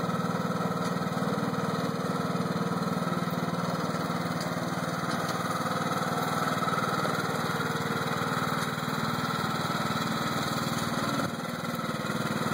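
Lawn mower engine running steadily, dipping slightly in level about a second before the end.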